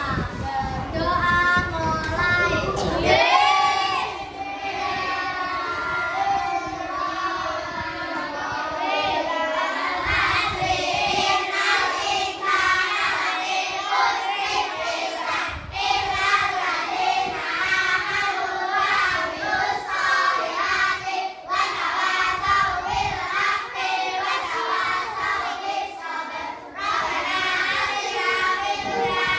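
A group of young children singing a song together, with a low rumble under the first few seconds.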